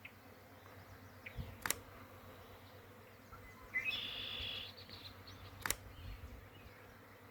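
Faint, steady buzzing of a honey bee swarm in flight. A bird calls briefly about four seconds in, and two sharp clicks sound about two and six seconds in.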